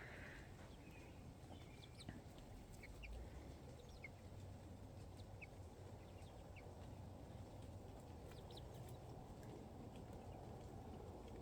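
Faint, scattered short clucks and peeps from backyard chickens over a low, steady background hush.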